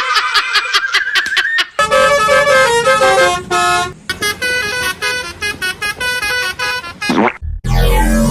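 Telolet-style musical bus horn playing a quick tune of stepped notes, after a wavering, clicking horn-like tone. Near the end a fast falling swoop leads into bass-heavy electronic music.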